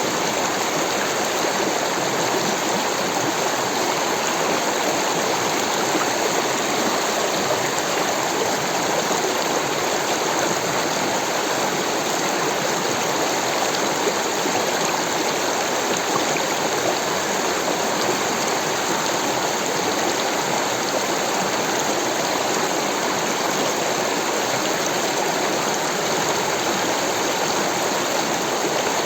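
Rushing water of a stream, a steady, unbroken rush.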